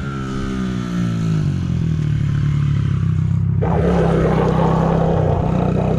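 Motorcycle engine running at low speed as it circles close by, its pitch easing down over the first second or so and then holding steady. About halfway through, a rough rushing noise joins in over the engine.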